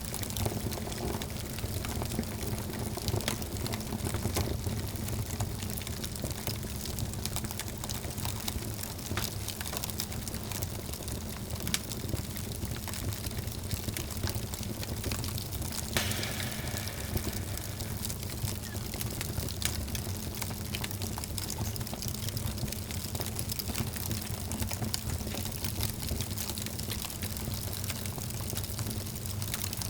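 Wood fire burning in a fireplace: a steady low rumble of flames with scattered sharp crackles and pops, the sharpest pop just past halfway.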